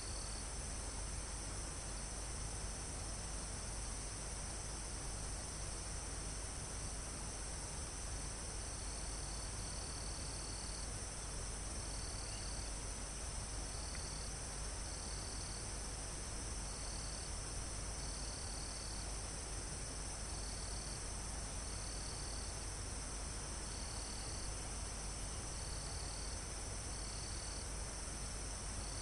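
Crickets and other insects trilling steadily at a high pitch. About nine seconds in, another insect joins with short chirping phrases repeated every second or two.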